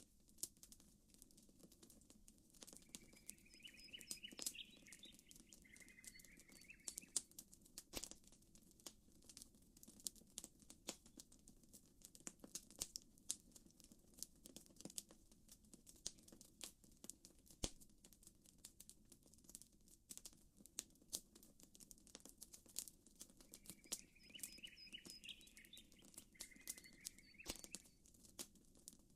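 Campfire crackling softly, with sharp irregular pops and snaps from the burning wood. A short chirping call sounds twice, a few seconds in and near the end.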